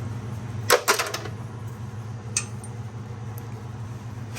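Broken chunks of piston and wrist pin clinking against metal as they come out of a blown small-block Chevy engine: a short cluster of clinks about a second in and a single click a little later. A steady low hum runs underneath.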